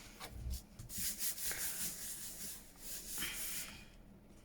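Paper being handled and rubbed on a desk: a run of short rustling, rubbing strokes that fade away near the end.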